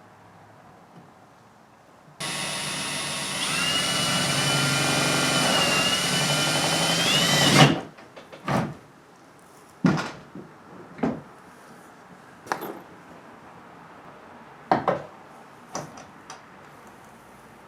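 Shop vac switched on for about five seconds, running with a steady whine that shifts in pitch, to suck up the plastic shavings from the hole cut for the rod holder, then switched off. A few knocks and clicks of handling follow.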